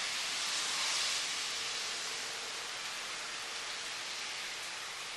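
Steady rain falling in a thunderstorm, an even hiss, with a faint steady tone of a distant tornado warning siren underneath.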